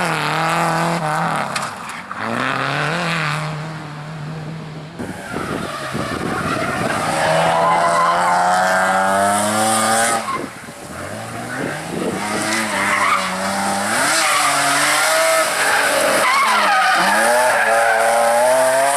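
Race car engine driven hard, revs climbing and dropping repeatedly through gear changes and lifts, with tyres squealing. The sound dips briefly about halfway through, then the engine pulls hard again.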